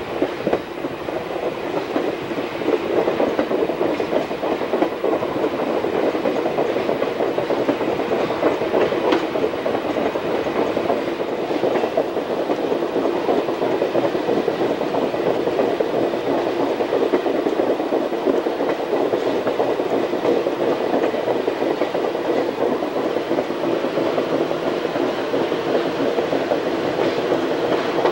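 Train wheels rolling steadily over the rails, heard from aboard the moving train, with a clickety-clack from the rail joints.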